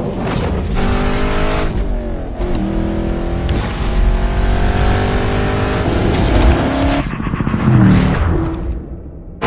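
Car engine revving and accelerating: its pitch climbs in several runs, is cut off abruptly about seven seconds in, and is followed by a short, lower rev.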